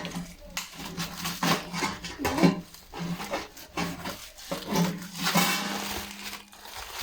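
Cardboard box and packing being handled and opened: irregular rustles, scrapes and light knocks, with a longer crinkling rustle about five seconds in.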